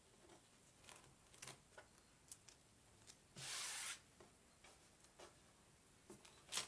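Faint rustling and rubbing of a plastic adhesive transfer being handled and pressed onto a painted board, with small clicks and one louder swish about halfway through.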